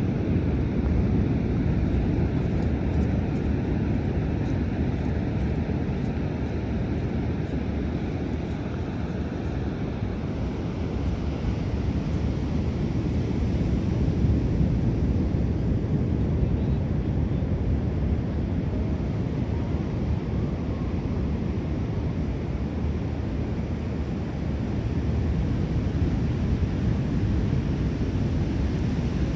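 Steady low roar of rough sea surf with wind on the microphone.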